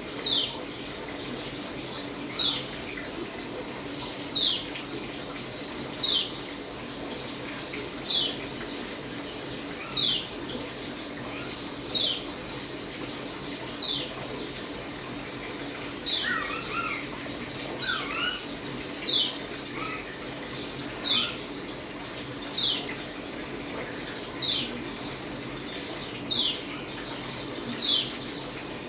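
Pleci (white-eye) calling: a short, high, sharply falling chirp about every two seconds, with a few lower chirps mixed in around the middle. A faint steady low hum runs underneath.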